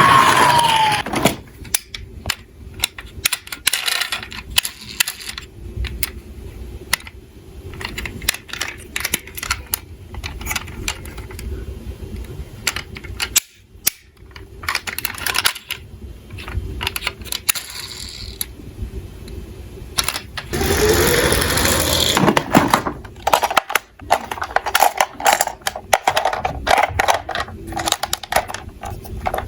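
Small die-cast toy cars clattering and rattling down a slope, a long run of irregular clicks and knocks as they roll and bump into each other, with a louder stretch of clatter about three quarters of the way through.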